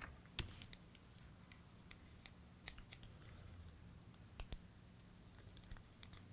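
Faint, scattered clicks and taps of small plastic toy parts being handled, a close pair of them in the second half, over a low steady hum.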